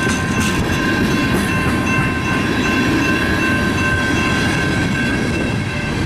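Loaded coal train cars rolling past: a steady rumble of steel wheels on rail, with a few steady high-pitched tones ringing over it and light clicks in the first second or so.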